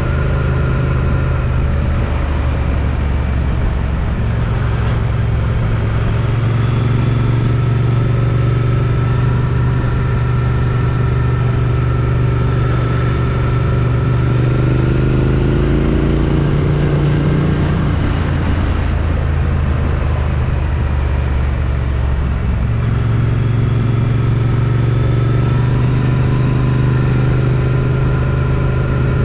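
Triumph Street Twin's 900 cc parallel-twin engine through its stock exhaust, running steadily under way. About halfway through, the engine note rises, then drops away, and settles back to a steady note for the last several seconds.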